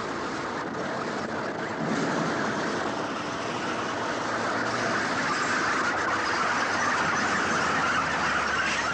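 Military vehicles driving past, a steady mechanical rumble and hiss of engines and running gear that grows louder through the second half.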